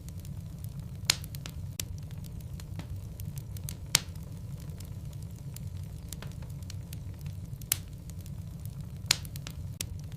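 Log fire burning in a fireplace: a steady low rumble of flame with frequent small crackles, and four sharp pops from the burning wood spread through the stretch.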